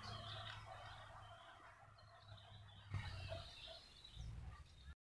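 Faint outdoor ambience with scattered bird chirps over a steady low hum, a single click about three seconds in, and the audio cutting out just before the end.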